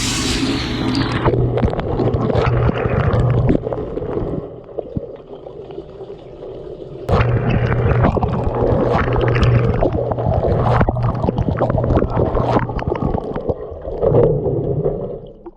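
A running dishwasher heard from inside its tub: the pump hums steadily while water sprays and splashes in uneven gushes. The hum stops about four seconds in, starts again about three seconds later, and pauses once more near the end.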